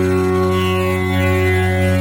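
Tanpura tuned to F#, its strings plucked in turn so their tones overlap into one continuous, evenly sustained drone rich in overtones.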